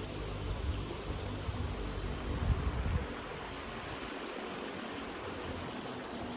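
Steady rushing outdoor noise, with a low rumble that stops about three seconds in.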